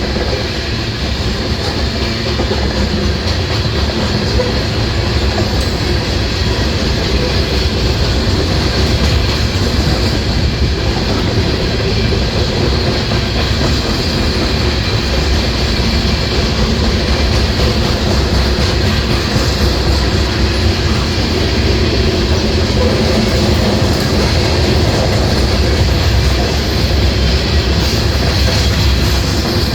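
A freight train of loaded coal gondolas rolling steadily past, with steel wheels clacking over the rail joints and a faint wheel squeal.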